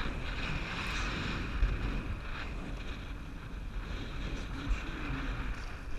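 Wind buffeting the action-camera microphone with a steady rushing noise underneath, as heard from a canoe on the river.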